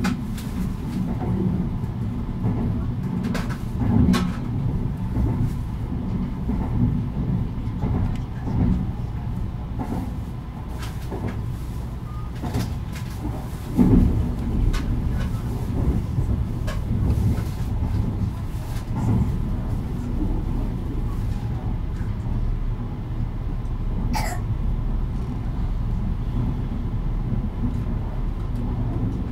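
Running noise of a Kintetsu 80000 series 'Hinotori' electric limited-express train under way: a steady low rumble with scattered knocks, one louder thump about 14 seconds in, and a brief high-pitched sound about 24 seconds in.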